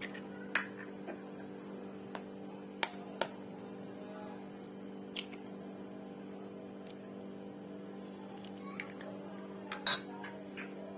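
Scattered sharp clinks and taps of kitchen dishes and utensils, with a louder cluster near the end, over a steady electrical hum.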